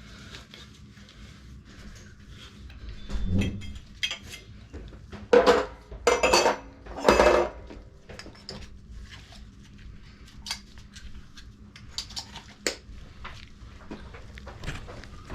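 Metal objects clattering and clinking in four short bursts a few seconds in, followed by scattered lighter clicks and taps.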